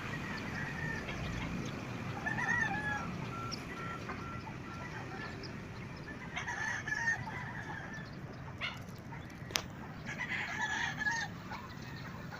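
Fowl calling outdoors: three rough, pitched calls about four seconds apart, with a run of short, even repeated notes after the first, and a single sharp click near the end.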